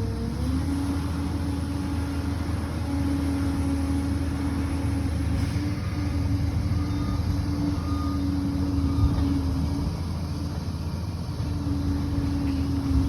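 Liebherr PR 746 crawler bulldozer's diesel engine running steadily, a deep drone with a steady whine over it that dips briefly in pitch near the start and near the end.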